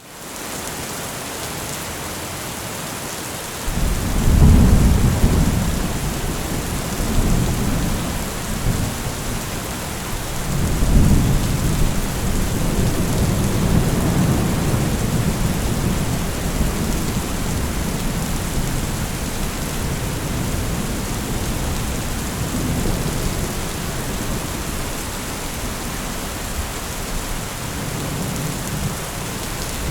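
Steady heavy rain fading in, then rolling thunder that starts about four seconds in, swells again around eleven seconds, and keeps rumbling under the rain.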